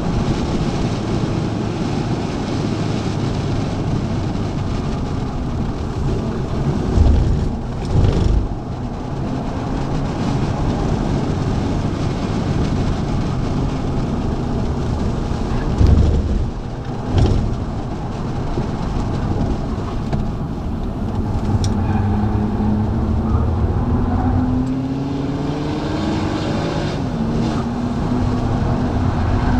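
A BMW's engine being driven hard at high revs, heard from inside the cabin with road and wind noise. There are two short low thumps partway through, and the engine pitch climbs steadily over the last several seconds as the car accelerates.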